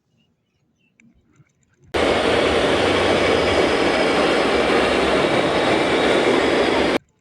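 A loud, steady rushing noise that starts suddenly about two seconds in and stops abruptly about five seconds later.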